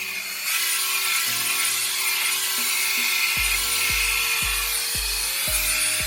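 2-in-1 hair dryer and volumizer (hot-air brush) blowing, a loud, even rush of air. Background music plays under it, with a bass beat coming in about three seconds in.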